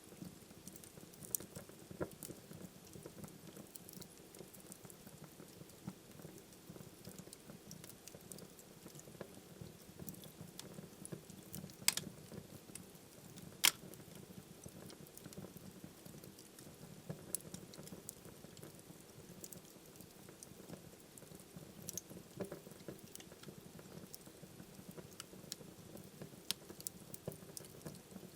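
Wood fire burning in a fireplace: a soft steady rush with irregular crackles and pops, two sharp loud snaps about twelve and fourteen seconds in.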